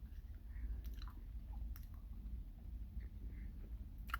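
Faint chewing of a soft, chewy sour candy, with a few sharp wet mouth clicks.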